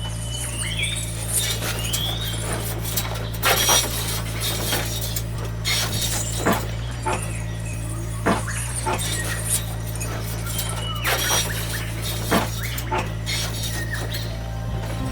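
A small motor running with a steady low hum, with scattered sharp clicks and clattering knocks over it.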